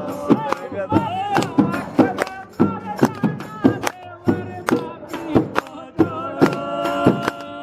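Men singing a folk song together, backed by a quick run of sharp percussive strikes.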